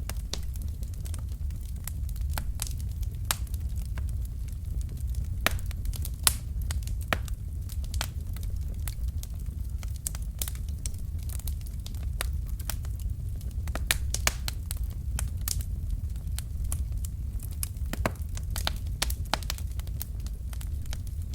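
Wood fire burning in a fireplace: a steady low rumble of flames under irregular crackles and sharp pops from the logs, several a second, with a few louder pops.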